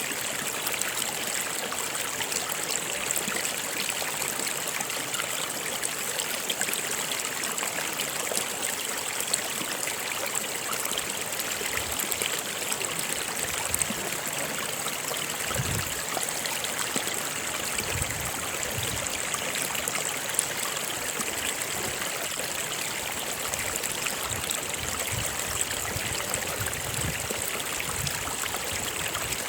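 A stream flowing steadily over rocks, trickling and gurgling, with a few low thuds of water in the second half.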